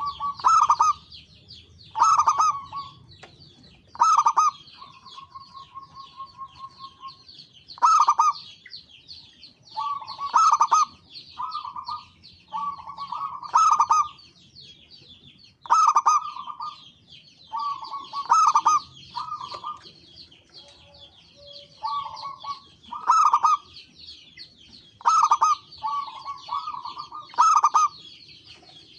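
Zebra doves (perkutut) calling: loud bursts of rapid cooing notes come about every one to two seconds, with one drawn-out steady note a few seconds in. A constant high chirping runs behind them.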